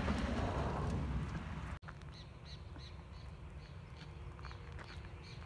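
Birds calling in the open, a short high call repeated about three times a second over quiet outdoor ambience. Before it, a louder rustling noise that stops abruptly a little under two seconds in.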